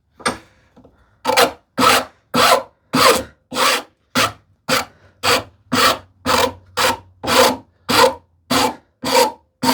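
Finer side of a woodworking rasp filing a wooden edge in steady back-and-forth strokes, about two a second, starting about a second in.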